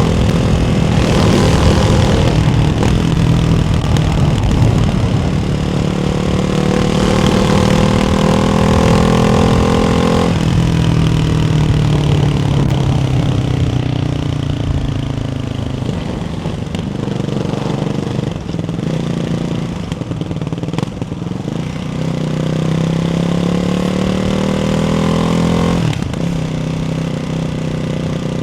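Ducati Hypermotard 698's single-cylinder engine heard through a Termignoni exhaust with the baffles in, pulling up through the revs under load. The pitch climbs slowly and then drops sharply about two seconds in, about ten seconds in and near the end. Through the middle the revs fall off and then build again.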